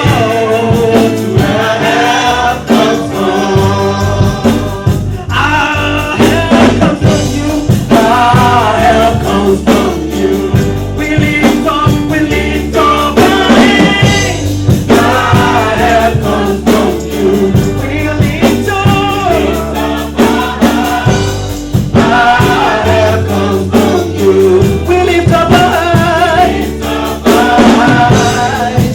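Gospel worship song sung by a group of voices over instrumental accompaniment, with sustained bass notes that change every few seconds.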